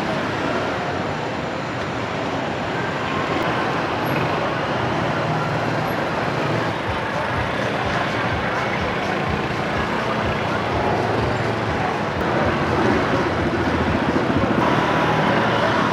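Busy street traffic: steady road noise with motorbike engines passing, somewhat louder near the end.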